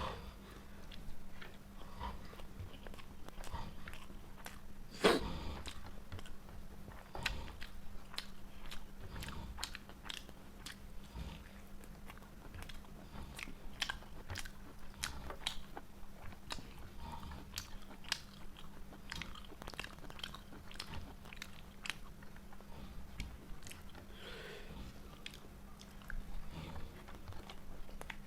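Close-up chewing and biting of food, a steady run of small mouth clicks, with one sharper click about five seconds in.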